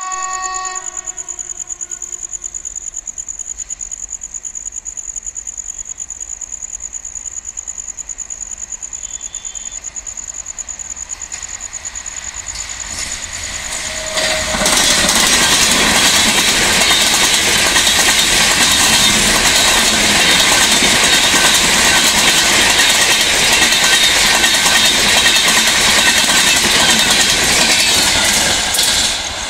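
Train wheels clicking in a steady rhythm over rail joints, with a brief horn at the very start. About halfway through, a train passing close on the adjacent track brings in a loud, steady rush and clatter that drops away just before the end.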